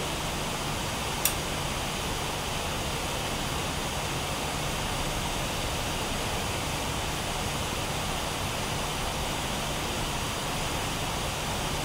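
Steady rushing background noise with a low hum under it, and a single sharp click about a second in.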